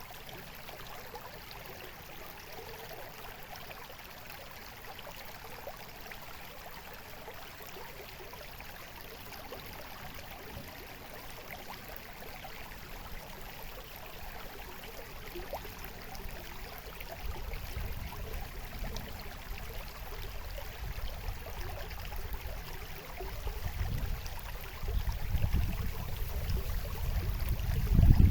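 Water trickling and babbling steadily, as of a small stream. From about 17 seconds in, irregular low rumbles rise beneath it and grow louder toward the end.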